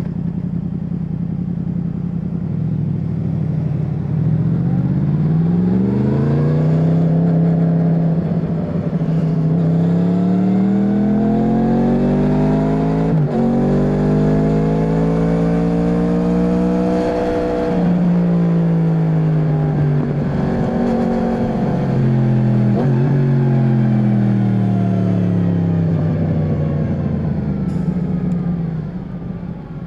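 Yamaha MT-10's crossplane inline-four engine under way. The revs climb steadily for about fifteen seconds, with a brief break partway, then fall away slowly as the throttle closes, with another short break along the way.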